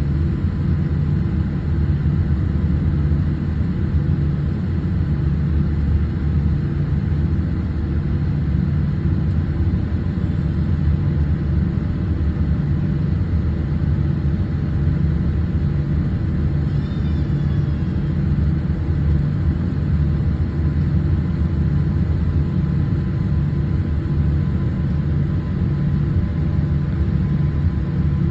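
Steady low rumble inside the cabin of an ANA Boeing 787 on the ground before takeoff.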